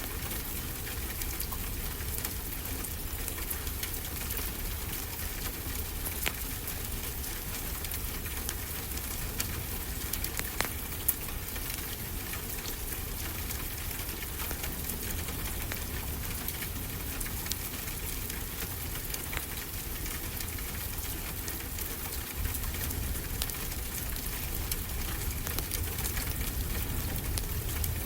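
Fireplace crackling, with scattered sharp pops, over a steady wash of ocean surf with a low rumble.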